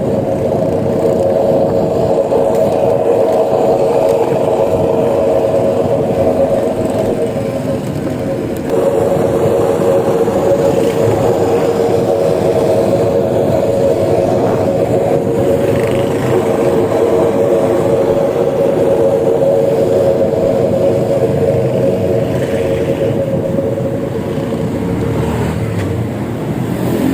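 Electric bike's 500 W hub motor whining steadily while riding, over road and tyre noise, with a brief dip in the whine about eight seconds in.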